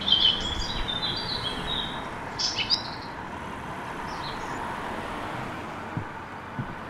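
Birds chirping over a steady background hiss of outdoor ambience: a run of chirps at the start, another short burst about two and a half seconds in, then only a few faint ones.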